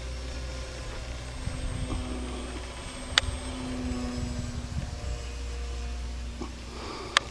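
Faint steady drone of a distant radio-controlled model airplane flying high overhead, over a low rumble. Two sharp clicks, about three seconds in and near the end.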